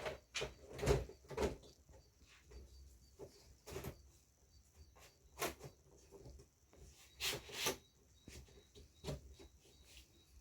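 Scattered light knocks and clicks of parts being handled and set back in place while reassembling an opened LED TV, with two sharper clacks close together near the end.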